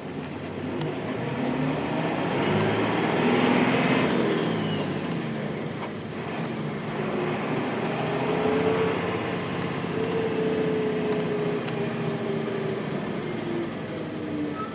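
Nissan Diesel Space Runner RM bus's FE6 six-cylinder diesel engine heard from inside the cabin while driving. The engine note climbs for about four seconds, drops around six seconds in, climbs again, then eases off near the end.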